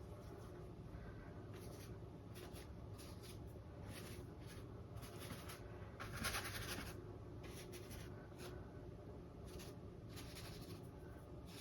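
Bristles of a large round paintbrush dabbing and brushing acrylic paint onto a stretched canvas. It makes a string of short, faint, irregular scratchy strokes, with a slightly longer stroke about six seconds in.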